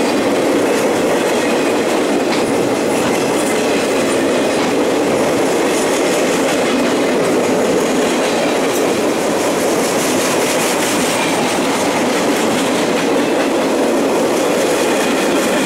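Flatcars of a work train loaded with track-maintenance machines rolling past close by: a steady, loud rumble and clatter of steel wheels on the rails that goes on without a break.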